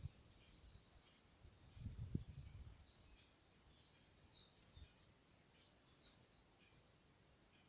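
Near silence with faint outdoor ambience: a quick run of high, distant bird chirps through the middle, and a soft low thump about two seconds in.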